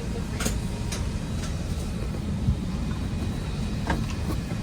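Airliner cabin noise: a steady low rumble, with a few faint clicks.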